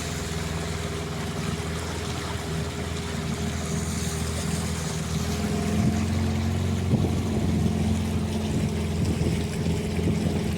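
Small boat's outboard motor running steadily, getting a little louder about halfway through.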